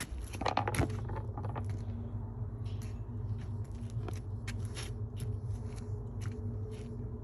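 Washing machine running with a steady low motor hum, while stones loaded into the drum knock and click against it irregularly, a quick flurry of knocks about a second in.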